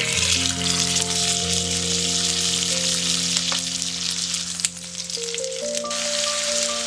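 Food sizzling steadily as it fries in hot oil in a pan, with a couple of faint clicks midway.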